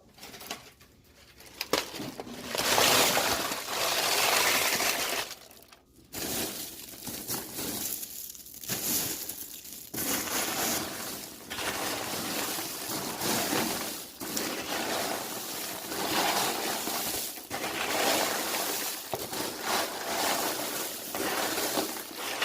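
Crunchy baked, sugar-coated popcorn being dumped into a container: a dense pouring rustle in several surges, with short breaks about six and eight and a half seconds in.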